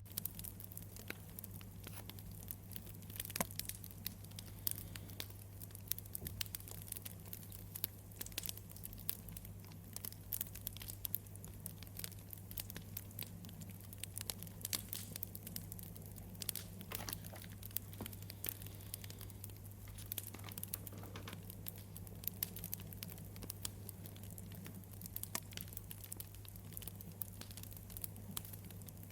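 Wood campfire crackling, with many irregular sharp pops and snaps over a steady low hum.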